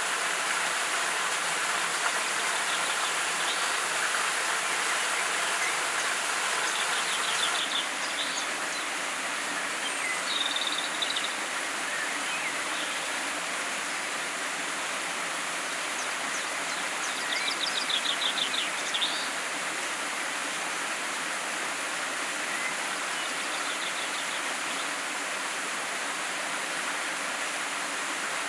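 Steady rush of a forest river's flowing water, with short, rapid, high chirping bird calls breaking through several times, most clearly around a third and two-thirds of the way through.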